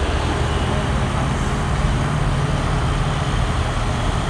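Large construction crane's diesel engine running steadily, a low hum under a broad noise.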